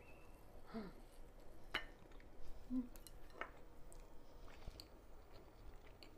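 Faint eating sounds: someone chewing soft, squishy souffle omelette, with a few light clicks.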